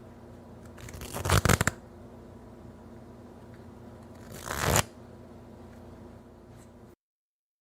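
A deck of playing cards being shuffled twice: a fast run of flicking cards about a second in, then a shorter one around four and a half seconds, over a faint steady hum. The sound cuts off to silence near the end.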